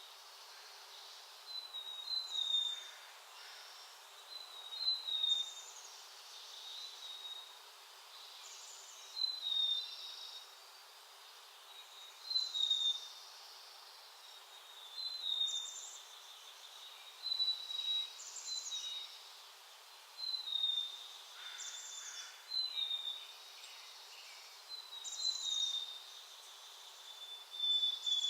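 A songbird calling over and over, a short high note that slurs downward, repeated about every two to three seconds.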